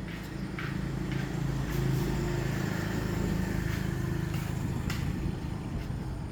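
An RC car's motor running with a steady hum that swells and rises slightly in pitch for a few seconds, with a few light clicks, apparently running again after repair.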